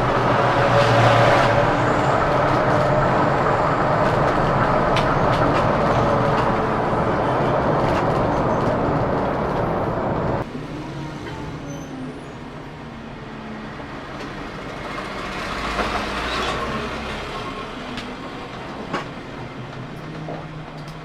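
Scania K410CB coach on the move, with a steady mix of engine and road noise and a low hum running under it. About ten seconds in, the sound cuts abruptly to a quieter stretch of the same kind of travelling noise.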